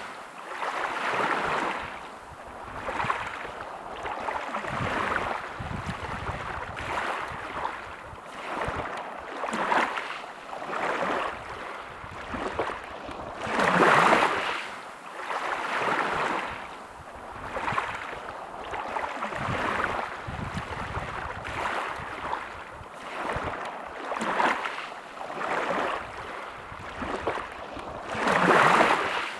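Sea waves washing onto a beach: small surges of rushing water every couple of seconds, with bigger waves breaking about halfway through and again near the end.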